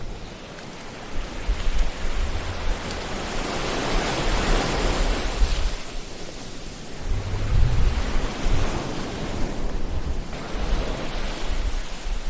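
Ocean surf: waves breaking and washing in, with a low rumble underneath. One wave swells up about three seconds in and falls away, and another comes in about halfway through.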